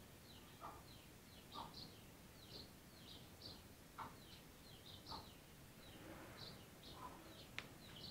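Faint, scattered small-bird chirps in the background, with a few soft clicks.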